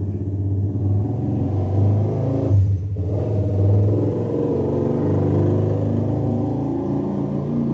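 Domestic cat purring close to the microphone, a steady low pulsing with a brief break about three seconds in.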